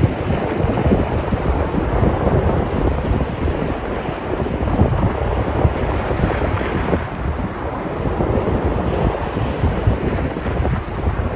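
Sea surf washing and breaking on the shore, with wind buffeting the microphone; one wave surges a little brighter about two-thirds of the way through.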